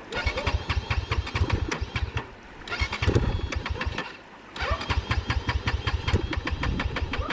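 Dirt bike engine being turned over on its starter in three runs of fast, even cranking with short pauses between, without catching; the bike has swallowed river water through its air filter.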